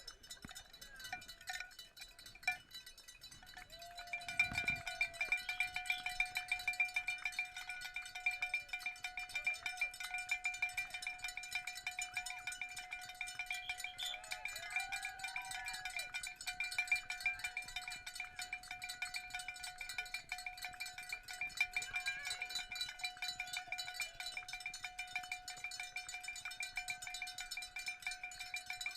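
A cowbell shaken rapidly and steadily, starting about four seconds in and ringing on without a break.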